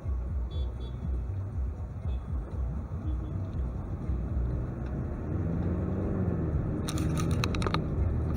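Steady low rumble of a car driving, engine and road noise heard from inside the vehicle, growing louder about five seconds in as the engine note rises and falls. A quick cluster of sharp clicks about seven seconds in.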